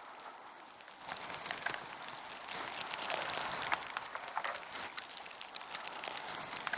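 Two bull moose sparring lightly, their antlers clicking and scraping together in a continuous crackle of small knocks that gets louder about a second in.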